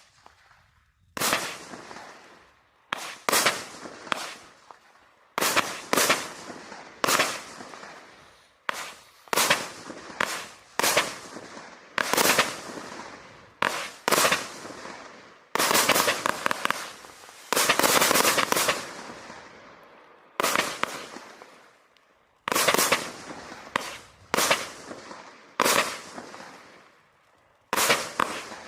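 Vivid Pyrotechnics 'Freak' consumer firework firing a long sequence of shots, a sharp bang about every second or so, each followed by a fading crackle. Near the middle the bangs come closer together, with a stretch of dense, rapid crackling.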